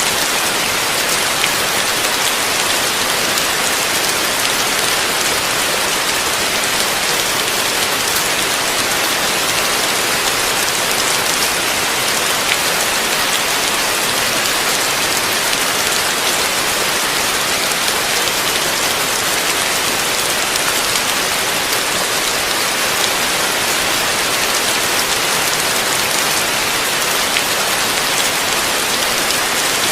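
Heavy rain falling steadily, a dense even hiss of drops on a surface with a few sharper individual drop ticks.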